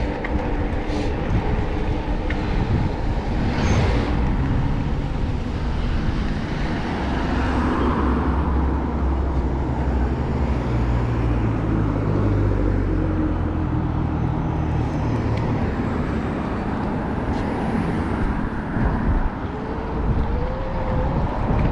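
City street traffic noise heard from a moving bicycle: a steady rush of road and passing-car sound, with a deeper low rumble swelling in the middle.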